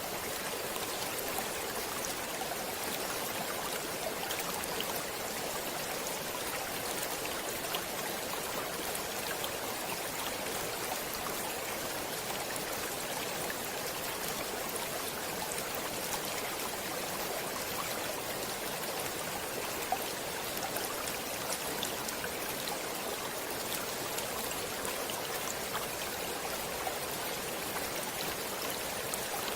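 Water flowing steadily in a stream, an even rushing with small splashes and drips scattered through it.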